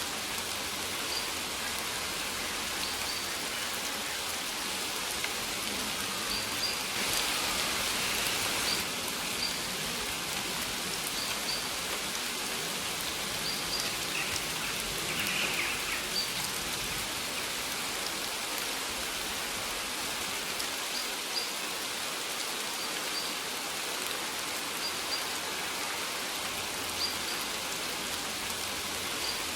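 Steady rain falling, briefly heavier about seven seconds in, with a short high bird chirp repeating every second or two.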